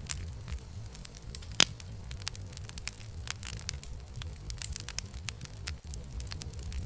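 Campfire burning: irregular crackles and small pops of burning wood, with one sharp loud pop about one and a half seconds in, over a low steady rumble of the flames.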